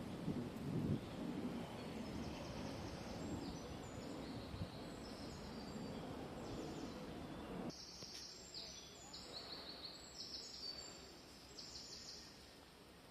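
Small birds singing in a string of short, high, quick notes over a low rumbling background noise. The rumble cuts off suddenly about halfway through, leaving the birdsong clearer.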